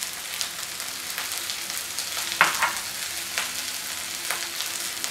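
Chopped vegetables sizzling steadily in hot oil in a wok, with scattered crackles and a few light knocks, the loudest about halfway through.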